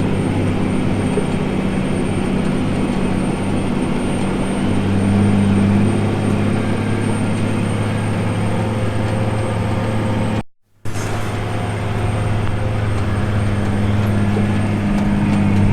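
Farm tractor's diesel engine running steadily under load while pulling a tillage digger: a continuous low drone. The sound cuts out completely for a moment about ten and a half seconds in, then resumes unchanged.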